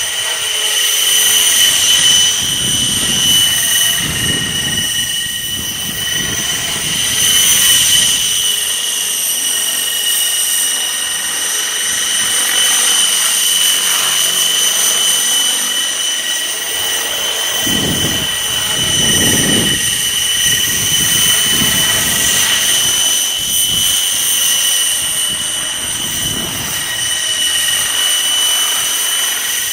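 Outrage Fusion 50 radio-controlled helicopter in flight, its drivetrain and rotors giving a steady high whine, while heavy wind buffets the microphone in gusts.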